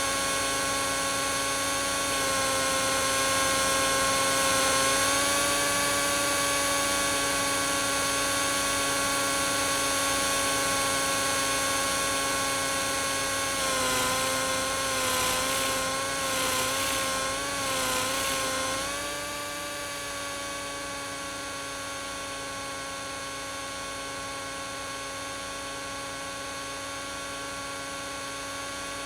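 A small RC helicopter's motor and rotor give a steady whine. About halfway through the pitch wavers up and down and the level rises and falls for several seconds as the throttle changes. It then settles into a quieter steady whine.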